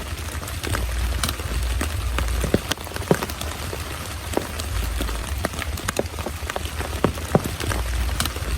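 Heavy rain falling steadily, with many separate close drops striking sharply at irregular moments over a low rumble.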